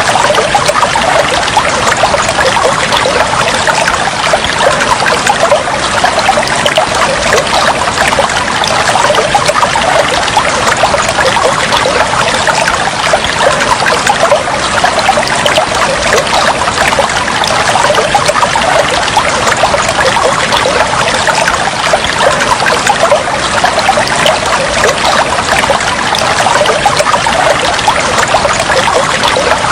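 Water trickling and flowing steadily, a dense even run of small splashes.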